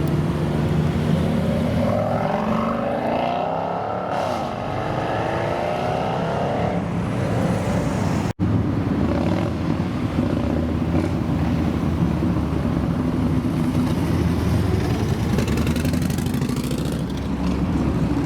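A car engine revving up, its pitch climbing for a few seconds as it accelerates. After an abrupt cut about eight seconds in, a car engine runs with a steady low note.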